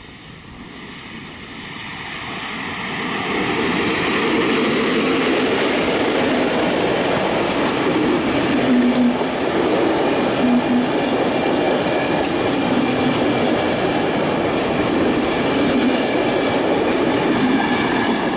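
An electric-locomotive-hauled passenger train approaching and passing close by. The sound grows louder over the first few seconds, then settles into a steady rumble of the coaches' wheels rolling past on the rails.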